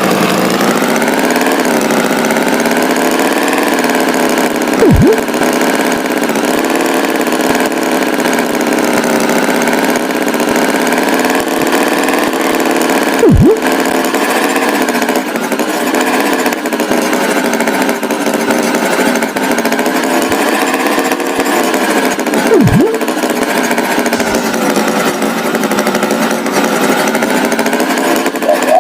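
Tractor engine running steadily at a constant pitch, with a short rising whoop about every eight or nine seconds, which suggests a looped engine sound effect.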